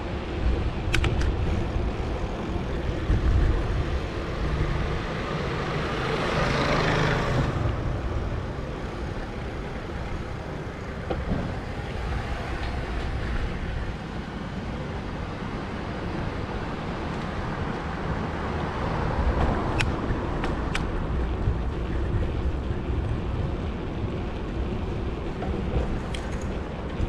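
City street traffic heard from a moving bicycle: a steady low rumble of cars and road noise, with a louder rush about six to seven seconds in and a few brief high clicks later on.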